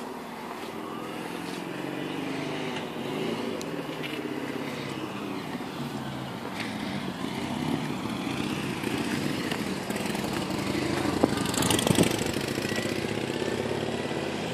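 Vauxhall Vectra VXR's 2.8 V6 turbo engine idling steadily, growing gradually louder, with a few sharp knocks about eleven to twelve seconds in.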